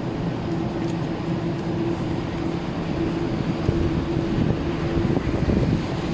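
Steady ambient hum of an airport terminal hall: a ventilation drone with a constant low tone, and a slightly busier stretch of background noise after a few seconds.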